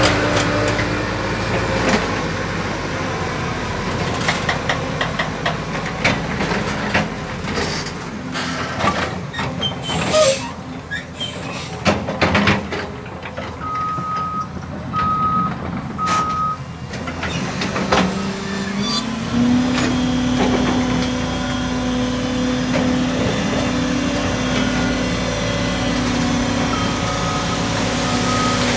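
Dump truck engine running, with its reversing beeper sounding three short beeps about halfway through and again near the end. Scattered knocks and clatter come before the first beeps, and the engine note rises a little after two-thirds of the way through and then holds steady.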